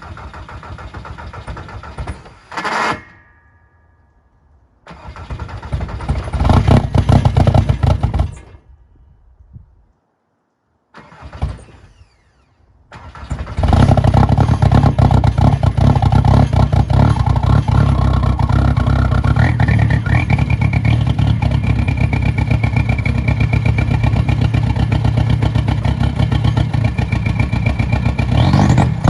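Volkswagen Jetta's 1.9 TDI four-cylinder turbodiesel on a cold start. Two short bursts of running each stop after a few seconds. About halfway through the engine catches and settles into a steady idle.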